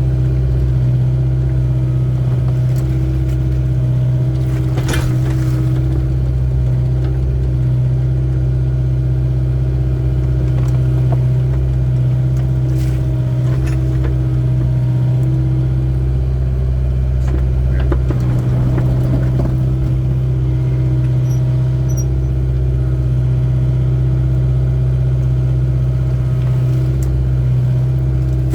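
Hydraulic excavator's diesel engine running steadily under work, a loud, even low drone, with a few short knocks and clanks from the machine digging.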